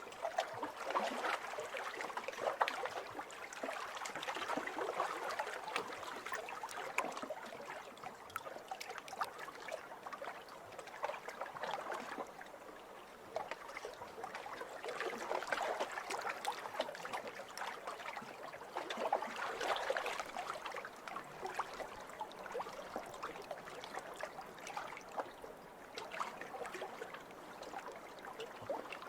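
Small waves lapping over a pebble shore, swelling and drawing back every few seconds, with a fine crackle of stones rattling in the wash.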